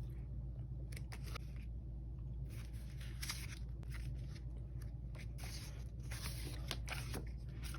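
Planner stickers and sticker sheets being handled and peeled: scattered faint crinkles, rustles and small clicks over a steady low hum.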